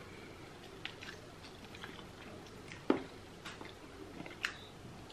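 Close-miked chewing and mouth sounds of people eating isi ewu (spicy goat head) by hand, soft scattered smacks and clicks, with one sharper click about three seconds in.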